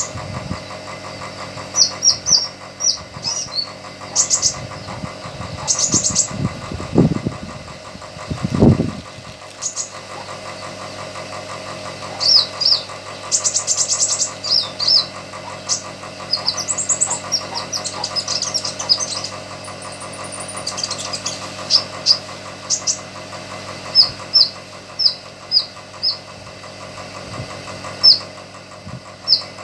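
Small songbird giving short, sharp, high chirps and trills in scattered runs, over a steady mechanical hum with a few louder low rumbles about seven to nine seconds in.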